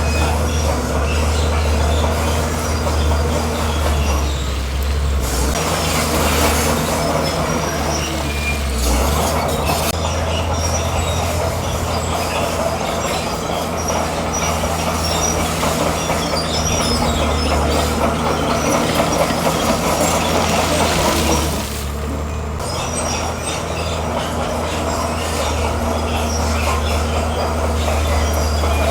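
Komatsu bulldozer at work: its diesel engine running steadily under load, with short, repeated high squeals from the steel tracks.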